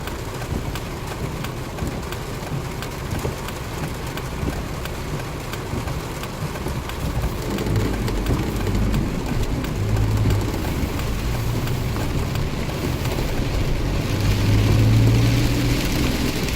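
Rain falling steadily, with a pattering of drops. A low rumble comes in about halfway and is loudest near the end.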